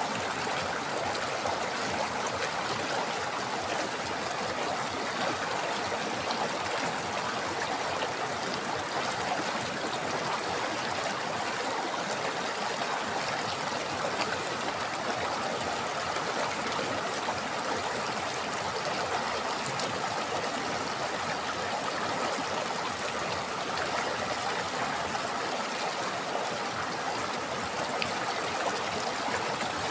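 A river or stream flowing and babbling, a steady rush of running water.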